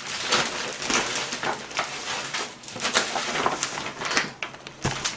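Gift packaging being opened by hand: irregular rustling and crinkling of wrapping paper or plastic, with a few sharper crackles.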